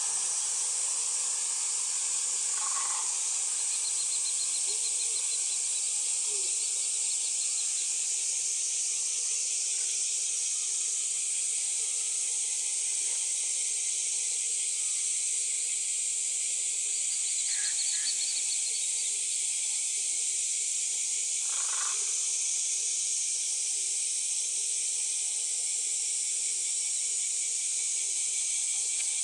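A steady, high-pitched hiss that does not change, with a few faint short sounds about 3, 17 and 22 seconds in.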